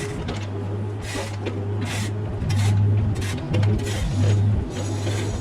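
Mini excavator engine running, its note rising and falling with load, while the bucket scrapes and clatters against the ground several times.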